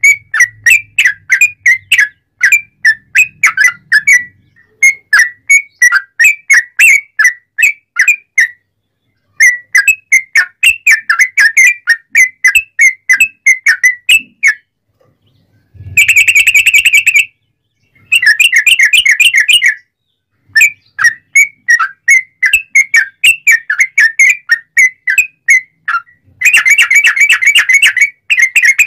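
Yellow-vented bulbul (trucukan) singing loudly: phrases of quick, whistled notes, about four a second, broken by short pauses, with bursts of fast rapid trilling about halfway through and near the end.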